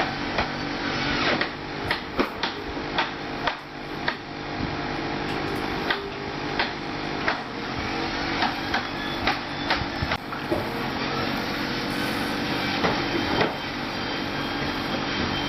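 Toy vehicles being handled: irregular hard clicks and knocks, roughly one or two a second, over a steady mechanical hum.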